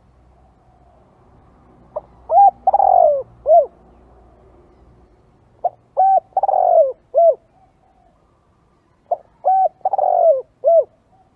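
Spotted dove cooing: three phrases about three and a half seconds apart, each a few short coos around one longer coo that falls in pitch.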